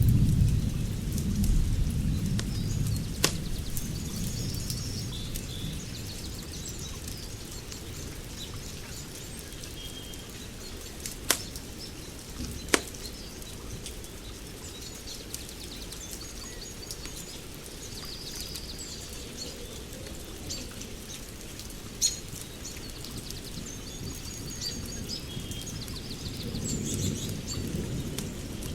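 Outdoor nature ambience: a steady hiss broken by a few sharp single pops, with birds chirping throughout. A low rumble, like distant thunder, fades over the first few seconds and swells again near the end.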